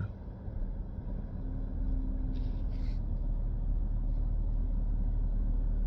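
2024 BMW X6 engine starting up, its low rumble building over the first couple of seconds and then settling into a steady idle.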